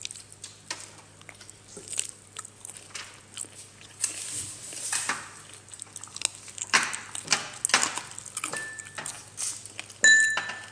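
Clatter of dishes and utensils: scattered small clicks and taps, with a short metallic ding twice near the end, the second louder.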